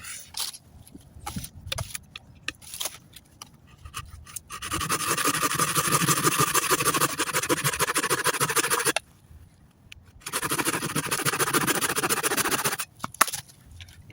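Hand saw cutting through a log in two spells, one of about four seconds and a shorter one of about two and a half, after a few light knocks and rustles.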